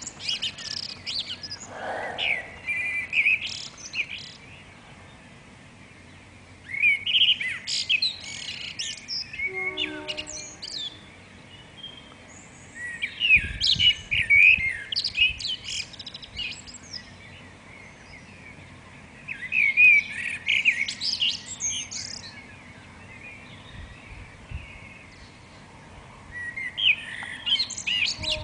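Songbird singing at first light in the dawn chorus: five bright, twittering phrases, each a few seconds long, separated by short pauses.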